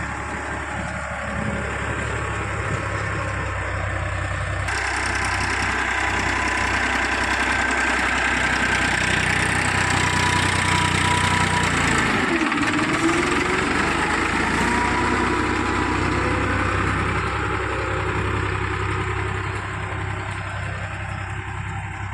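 Heavy diesel machinery engines running steadily, getting louder toward the middle and easing off near the end, with an abrupt change in the sound about five seconds in.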